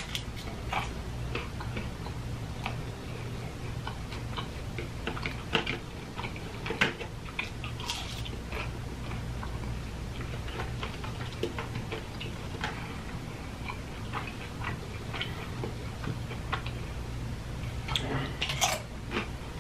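Close-up eating sounds: a person biting and chewing crunchy fried food, with irregular small crunches and mouth clicks over a steady low hum.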